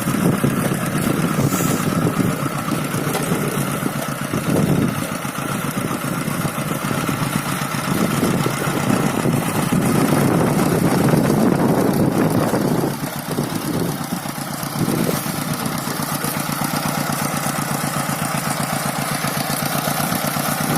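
Two-wheel hand tractor's single-cylinder diesel engine running with a fast low chugging, surging louder and easing off for the first dozen seconds, then settling into a steady run.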